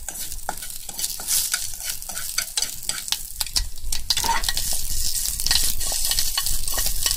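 Asparagus and bacon sizzling in a frying pan as they are stirred, with many small clicks and scrapes against the pan. The sizzle gets louder about halfway through.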